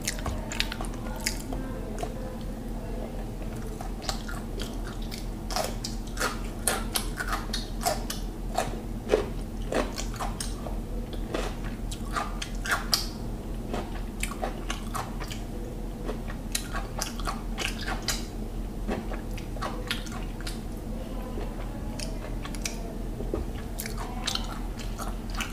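Close-miked wet mouth sounds of a person eating the last scraps of biryani rice and mint chutney: chewing and lip smacks in many short, irregular clicks. A steady low hum runs underneath.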